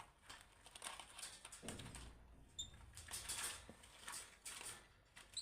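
Pet birds moving about in a cage: faint scratching, rustling and light clicking of claws and beaks, with a brief high chirp about two and a half seconds in.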